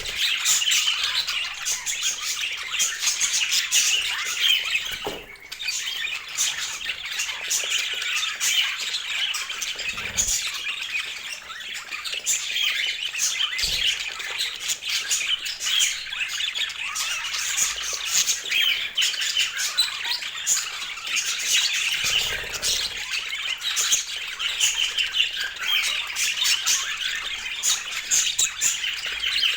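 Several budgerigars chattering and squawking without pause in a dense, high-pitched jumble, with a few soft low thumps underneath.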